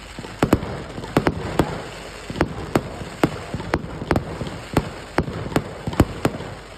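Fireworks going off: a run of sharp bangs and cracks at an uneven pace, roughly two a second.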